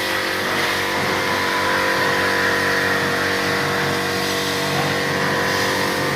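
Steady mechanical drone from running machinery, with a whine of several held tones over a hiss, unchanging throughout.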